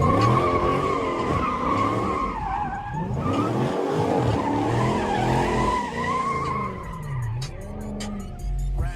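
A car spinning donuts, its tires squealing in a wavering tone while the engine revs up and down. The squeal fades about seven seconds in.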